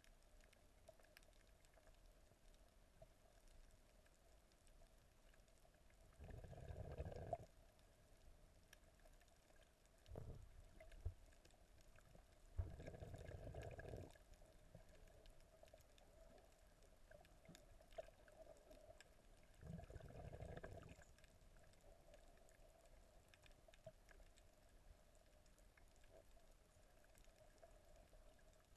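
Muffled water gurgling heard by a camera in the sea, in four short bursts of a second or two each over a faint steady hum; otherwise near silence.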